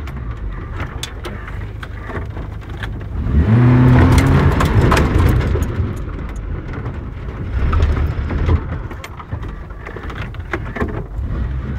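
Suzuki Samurai driving off-road, heard from inside the cabin: the engine revs up about three and a half seconds in and eases off a couple of seconds later, rising again briefly near the end. Scattered knocks and rattles come from driving over rough ground.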